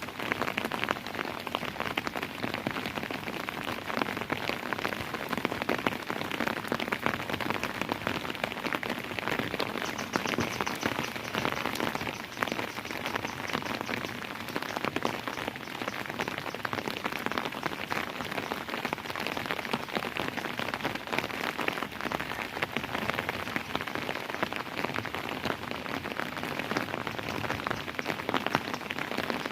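Steady rainfall, dense drops pattering on a hard surface, without thunder.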